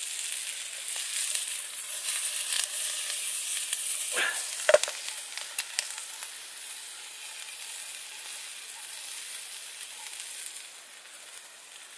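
Asparagus frying in a pan on a wood-burning camp stove, sizzling steadily with fine crackles. A brief clunk about five seconds in.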